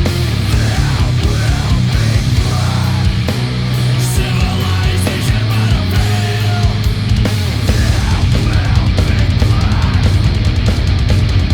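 Heavy metal/punk recording with distorted electric guitars and drums. About two-thirds of the way through, the drumming turns to a faster, denser pounding.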